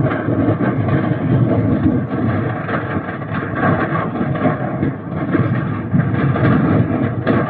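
A large fire burning, with a steady low rumble and dense irregular crackling.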